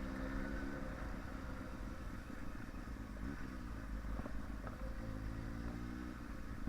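Yamaha sportbike's inline-four engine running at low revs, its pitch sinking slightly early on and rising again near the end, over a steady low rumble.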